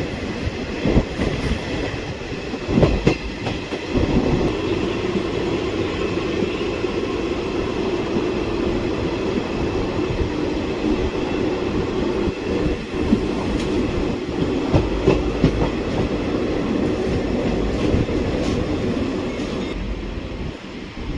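A passenger train running along the track: a steady rumble of wheels on rail, with a few sharp clacks in the first few seconds as the wheels cross rail joints.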